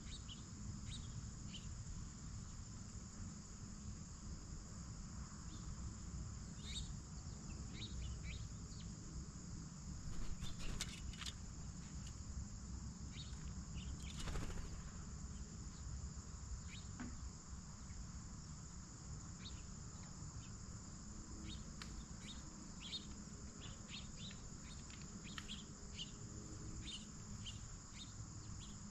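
Steady high-pitched insect chorus, with scattered short clicks and a few louder sharp knocks about ten to fourteen seconds in, over a low rumble.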